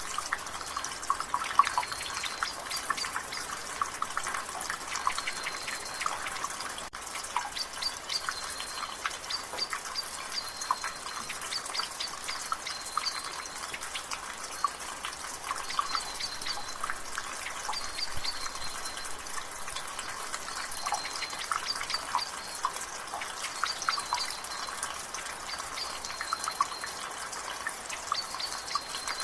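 Water dripping fast and irregularly from a gutter over a steady hiss of light rain. A bird repeats a short high note every couple of seconds in the background.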